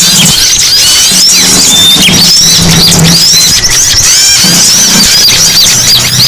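Many small songbirds chirping and calling at once, a dense noisy chorus of quick, overlapping high chirps and short up-and-down whistles, used as a lure call to draw wild small birds.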